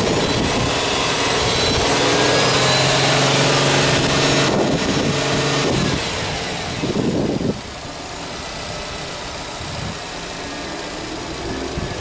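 Subaru Impreza S-GT's turbocharged 2.0-litre EJ20 flat-four engine held at raised revs with a steady boxer drone for about six seconds, then dropping back to a quieter idle about seven and a half seconds in.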